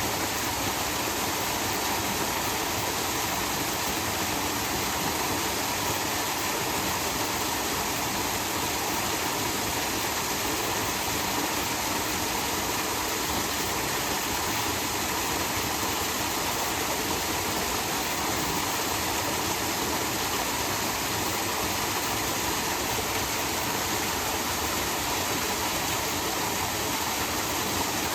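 Steady rush of falling water from a small shrine waterfall, the Kanae waterfall, unbroken throughout.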